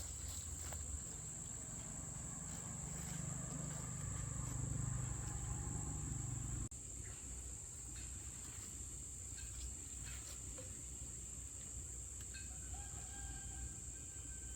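A steady, high insect buzz with chickens calling over it. There is a low rumble in the first half that stops abruptly about halfway through.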